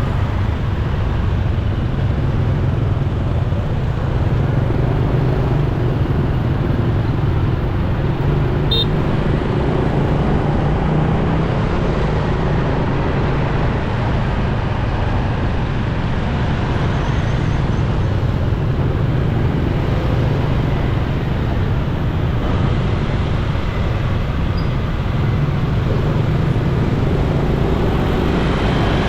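Motorcycle riding through busy traffic: a steady low engine hum under a continuous haze of road and traffic noise.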